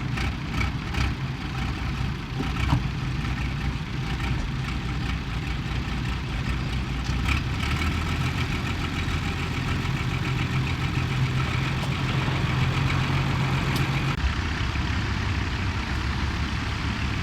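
Large tractor diesel engine running steadily near idle. About fourteen seconds in, its note changes as one of the low tones drops away.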